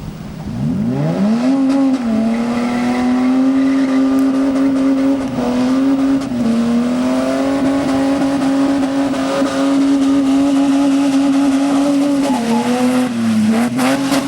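Nissan Patrol Super Safari's 4.8-litre straight-six revved up hard about a second in and then held at high revs, with a few short dips, as the 4x4 is stunt-driven on a wet lot.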